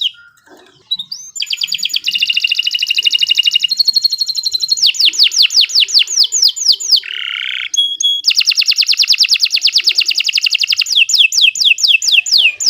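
Domestic canary singing a long, varied song: fast trills of rapidly repeated notes and runs of downward-sweeping whistles, with a short harsh buzzy note in the middle. The song stops briefly at the start and resumes about a second and a half in.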